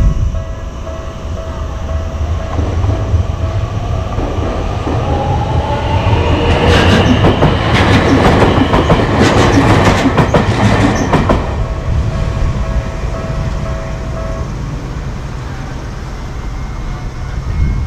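A train passing, its wheels clattering over the rail joints, loudest for about five seconds in the middle and then fading. Under it runs a steady two-note ringing tone that stops a few seconds before the end.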